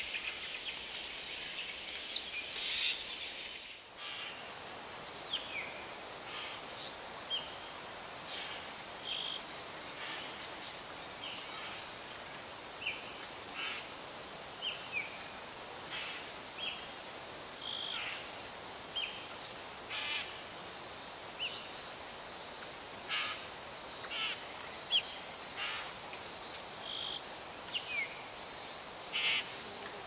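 Birds chirp briefly. About four seconds in, a steady, high, pulsing insect trill begins and continues, with many short bird chirps and whistles scattered over it.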